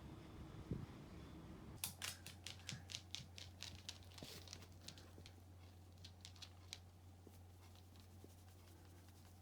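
A small dog's claws clicking on a hard floor: a run of faint quick taps, about three or four a second, starting about two seconds in and thinning out after about five seconds, over a low steady hum.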